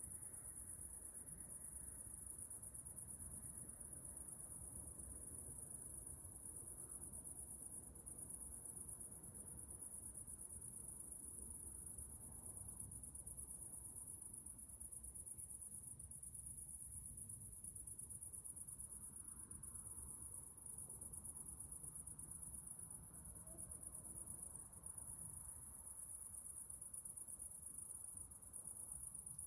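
Chorus of night insects, a continuous high-pitched trilling that holds steady throughout, over a faint low rumble.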